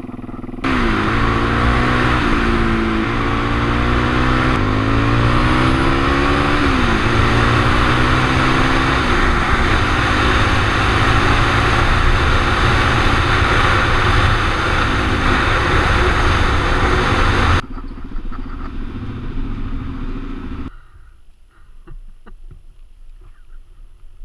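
Suzuki DR-Z400's single-cylinder four-stroke engine running under way, its revs rising and falling as it is ridden through the gears with a broken clutch lever, over heavy wind rush on the helmet-mounted camera. About two-thirds of the way through the sound drops sharply as the bike slows to a low running note. That note stops a few seconds later, leaving a few light knocks and scuffs.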